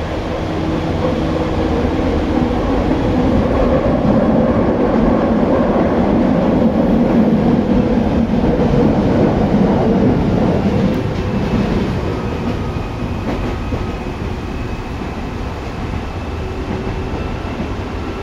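Tokyu 8500 series electric train running, heard inside the car over its line breaker: dense wheel-and-rail rumble with steady humming tones from the traction equipment, growing louder over the first few seconds and easing off after about ten seconds.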